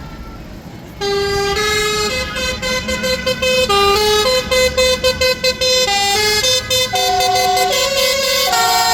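Musical vehicle horn playing a tune in stepped notes, with quick repeated notes in the middle. It starts about a second in over a low engine rumble.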